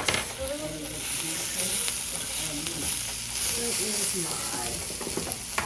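Chicken frying in a pan: a steady, high sizzle, with a faint voice underneath and a sharp click near the start and near the end.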